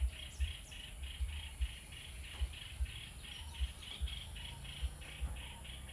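An even series of short high chirps, about four a second, from a small animal calling steadily, with irregular low thumps underneath.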